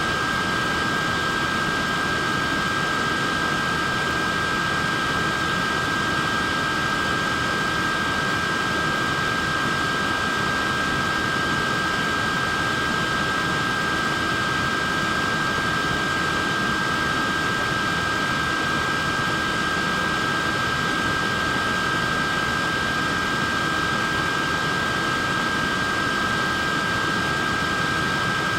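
Portable neck fan running steadily: an even rush of air with a constant high motor whine.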